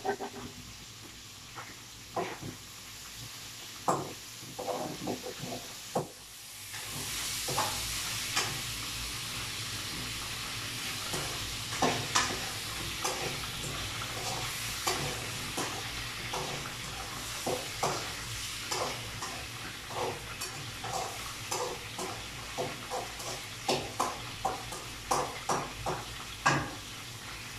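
Shrimp frying in hot oil in a wok, stirred with a metal spatula that scrapes and clicks against the pan. The sizzle comes in about a quarter of the way through and runs on steadily under repeated spatula strokes.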